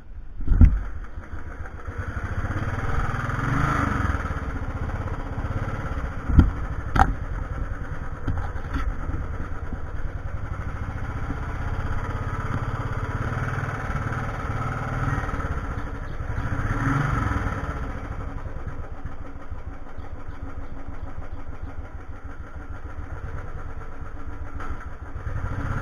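Royal Enfield 350 single-cylinder motorcycle engine running as the bike is ridden. The engine note swells twice, about four seconds in and again near seventeen seconds, as if under acceleration. A few sharp knocks come through, one right at the start and two more around six to seven seconds.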